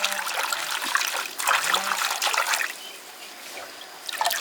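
Water splashing and trickling in irregular bursts, quieter for a second or so before picking up again near the end.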